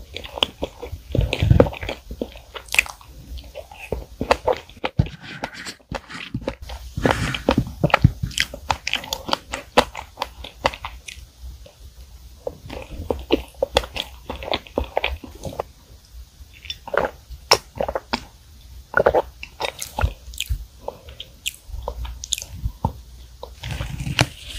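Close-miked chewing of soft chocolate cream cake with strawberries: wet mouth and lip smacks with many irregular small clicks.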